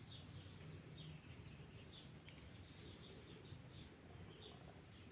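Faint small-bird chirping: a quick run of short, falling chirps, several a second, with a few brief gaps, over a low steady rumble.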